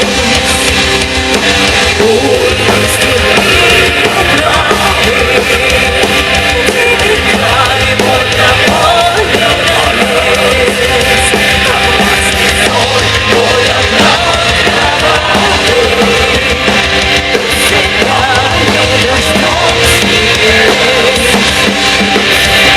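Loud heavy metal music from a folk metal band playing live, with a drum kit driving it.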